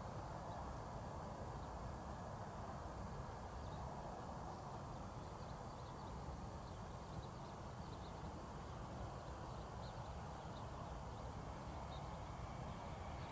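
Faint open-air ambience, a low steady rumble and hiss, with a distant Bombardier Aventra Class 701 electric train approaching; its sound begins to rise near the end.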